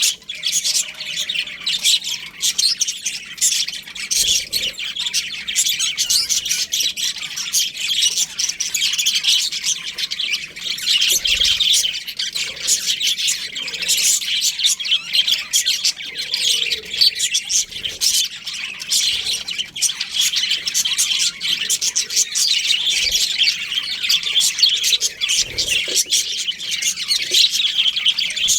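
A colony of budgerigars chirping and chattering together, many high calls overlapping without pause.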